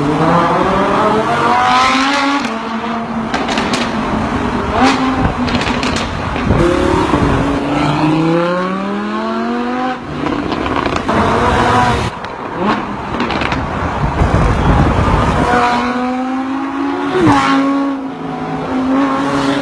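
Supercar engine revving hard, its pitch climbing several times and falling back between climbs, with a few sharp cracks in between.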